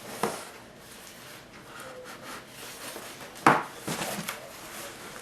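Cardboard packaging being handled as a robot vacuum is lifted out of its box: rubbing and scraping with a few sharp knocks, the loudest about three and a half seconds in.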